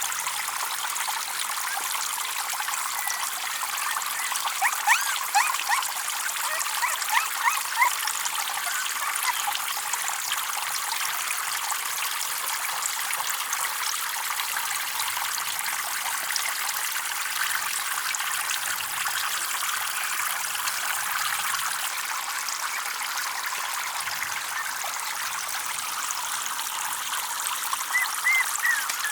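Steady trickle of running water, with a run of short, louder plinks about four to eight seconds in and a few more near the end.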